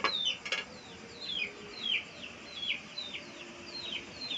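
A bird peeping over and over, high short peeps that fall in pitch, every half second or so. Two sharp metal clinks of a perforated aluminium steamer tray sound right at the start, the loudest sounds.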